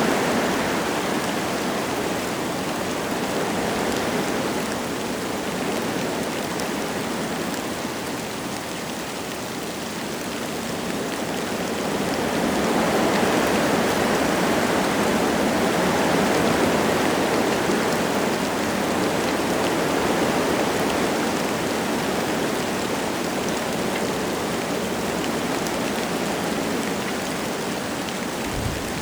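Wind gusting through forest trees with light rain falling, a steady rushing noise. It eases about a third of the way in and swells again just before the middle.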